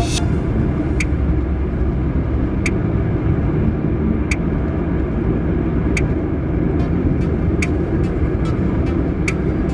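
Steady road and engine noise of a car heard from inside the cabin, with a short sharp tick repeating about every second and a half.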